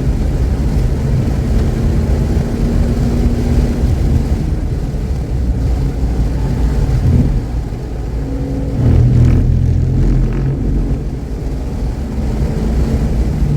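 Car engine running hard at track speed, its note dipping about seven seconds in and then pulling louder again. The engine runs cleanly, without misfiring.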